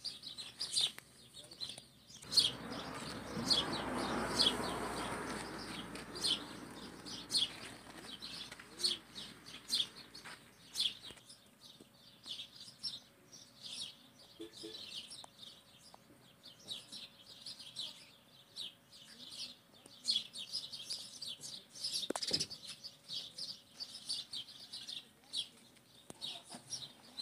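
Small birds chirping in short, repeated high calls. About two seconds in, a broad rushing noise swells up and fades away over several seconds.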